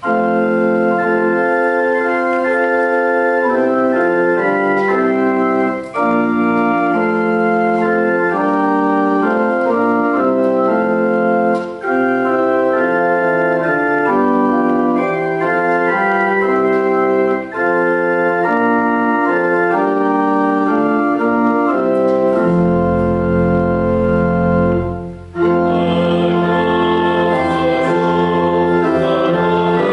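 Church organ playing a slow hymn-like piece in sustained chords, phrase by phrase with short breaths between phrases; deep pedal bass notes come in about two-thirds of the way through, and the sound grows fuller near the end.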